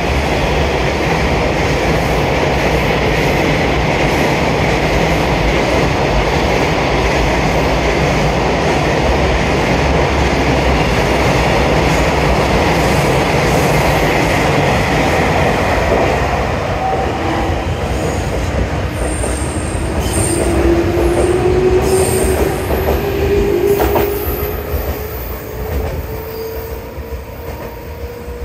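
JR 313 series and 211 series electric multiple units pulling out and running past along the platform: a loud, steady rumble and rattle of wheels on rail. Brief high squeals come a little after the middle, and a whine rises in pitch as the train draws away and the noise fades over the last few seconds.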